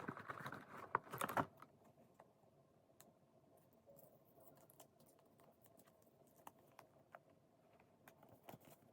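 Sparse small clicks and taps of small craft decorations being handled and pressed onto a phone case, busier in the first second and a half, then scattered faint ticks over a faint steady hum.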